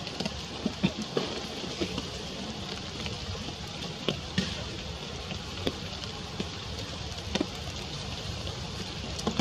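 Steady rain falling, with scattered sharper drips and taps among the even patter.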